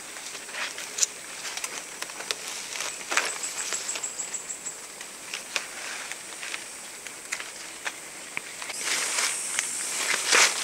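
Outdoor forest ambience: a high, thin insect trill pulsing in quick repeats, with scattered light clicks and rustling taps. The high insect chirring grows denser and louder near the end.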